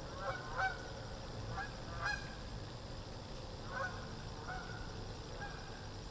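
A bird giving about seven short calls spread over a few seconds, over a steady background hiss.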